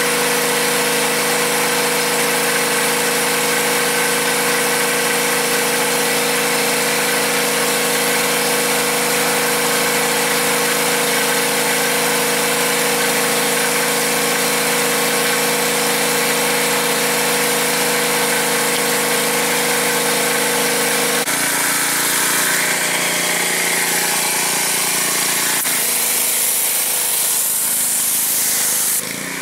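Gas pressure washer running steadily with the hiss of its spray; its engine note shifts about two-thirds of the way through.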